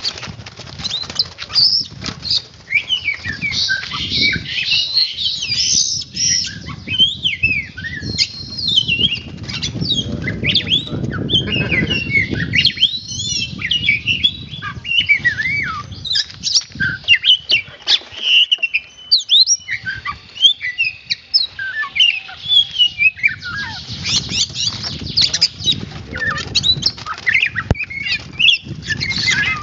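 Oriental magpie-robin (kacer) singing a continuous, rapid stream of varied whistles, chirps and harsh squawks, with a low rustling noise underneath, strongest about ten to thirteen seconds in.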